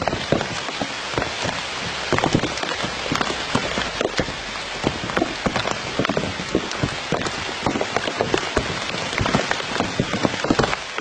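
Steady rain falling on a surface, with many individual drops striking irregularly.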